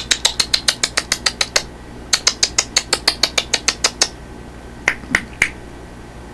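A rapid run of sharp clicks, about six a second, pausing briefly before a second run, then three single clicks a little later.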